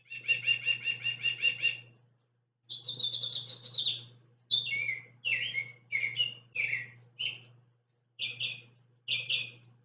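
Singing bird clock playing recorded bird songs through its small speaker: first a fast trill, then a warbling phrase, then runs of short falling whistled notes, with a faint low hum beneath each song.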